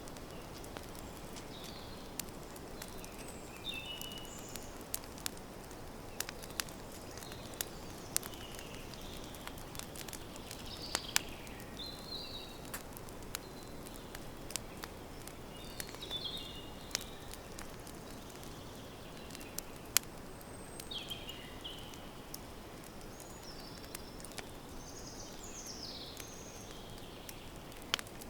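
Wood campfire crackling, with scattered sharp pops over a low steady rush, while small birds give short chirping calls every few seconds.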